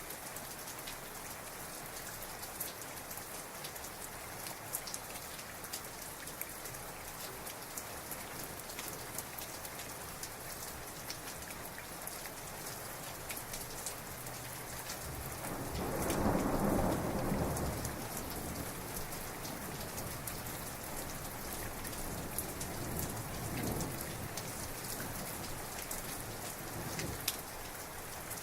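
Heavy rain falling steadily with scattered individual drop hits, and a roll of thunder rumbling up about halfway through, peaking for a couple of seconds and trailing off, with a weaker rumble a few seconds later.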